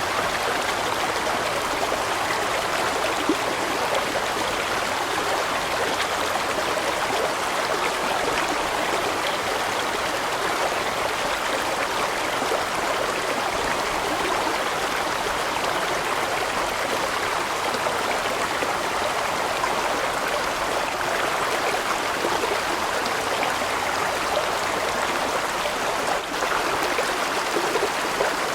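A large mountain stream flowing, its water rushing and splashing steadily over rocks.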